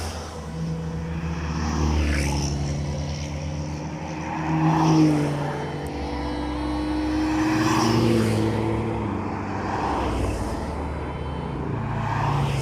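Sports car engines running, their revs slowly rising and falling, with the loudest swell about five seconds in.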